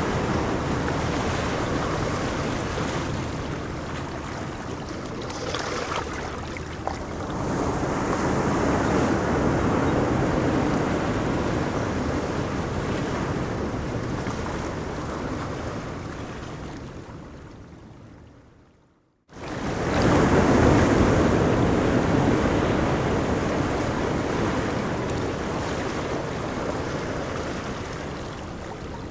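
Ocean surf washing onto a beach, a continuous rushing noise that swells and ebbs. About two-thirds through it fades away to silence, then cuts straight back in at full strength.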